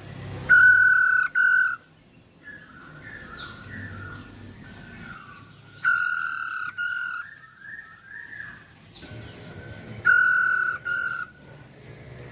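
Female masked laughingthrush (poksay hongkong) calling: three loud, harsh double calls about four to five seconds apart, with softer chattering notes in between.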